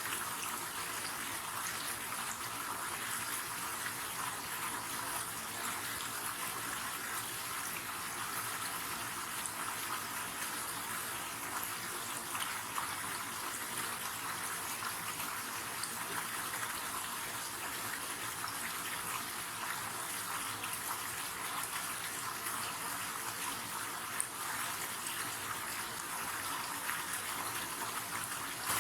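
River water running steadily, an even rushing hiss with little low rumble.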